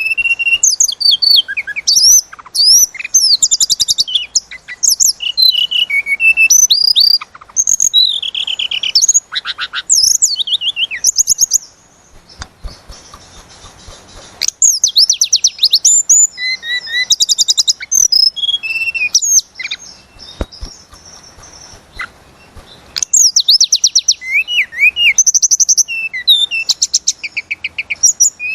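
Tledekan gunung singing long, fast phrases of rapid trills, chips and high whistled glides. The phrases come in bursts with two pauses of a few seconds around the middle.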